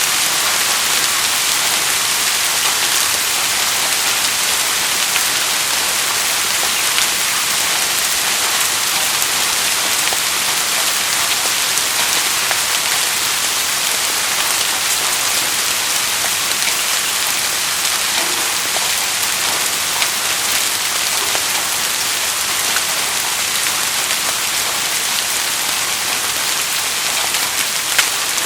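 Steady rainfall: a dense, even hiss of falling drops, with a few single louder drops standing out now and then.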